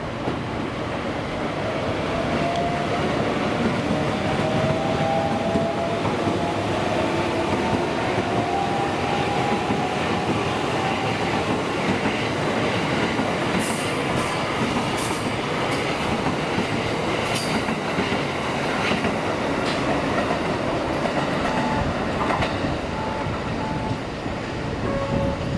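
JR West 683 series limited express electric train running past along the platform track: a steady rumble of wheels on rail, with a faint whine that rises slowly in pitch over the first ten seconds. A few sharp clicks come from the running gear about halfway through.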